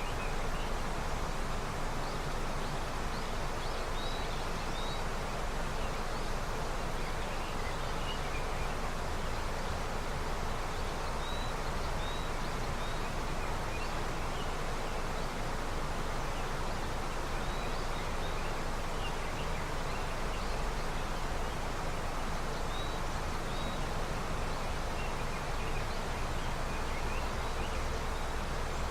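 Steady rushing of a river running with snowmelt. A few short, faint high bird chirps come through it now and then.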